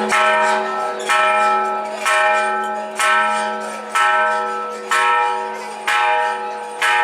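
A large temple bell struck at an even pace, about once a second, each stroke ringing on into the next.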